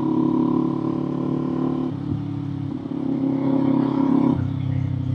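Kawasaki Z400 parallel-twin engine and exhaust running while riding. The throttle eases off about two seconds in, opens again about a second later, and eases off again near the end.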